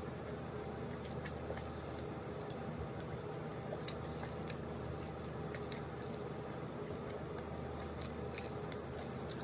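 Close-up eating sounds of a person chewing fried chicken and pulling it apart by hand, with scattered short wet clicks and smacks. A steady low hum runs underneath.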